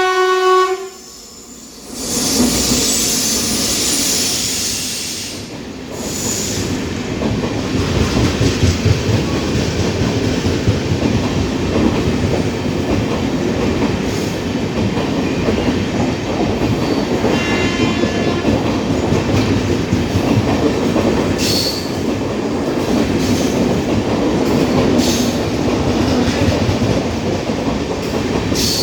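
A train horn sounds briefly at the start, then a train passes close by. Its wheels clatter over the rail joints in a steady rumble that lasts the rest of the time.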